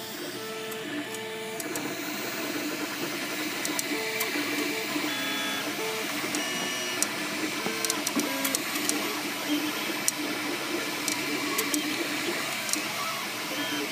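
MakerBot Replicator 2 3D printer running, its stepper motors singing in short tones that change pitch with each move. From about halfway in, sharp clicks are scattered through the sound: the clicking and squeaking noise the owner is chasing, which he places on the side opposite the motors.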